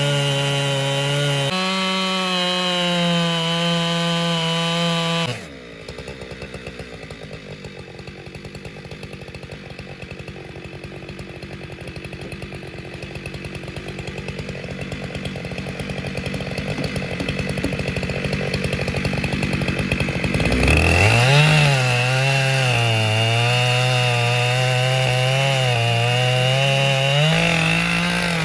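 Husqvarna 592XP two-stroke chainsaw on an Alaskan chainsaw mill running at high speed, then dropping to a rough idle about five seconds in. About fifteen seconds later it revs back up and runs at full throttle, its pitch wavering with the cutting load, and rises and steadies near the end.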